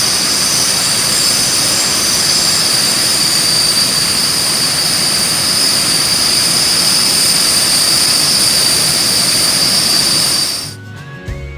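Jet aircraft engine running with a steady, loud rush and a high-pitched whine, which cuts off abruptly about ten seconds in.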